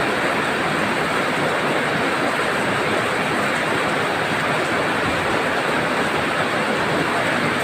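Heavy tropical rain pouring down, a dense steady hiss with no let-up.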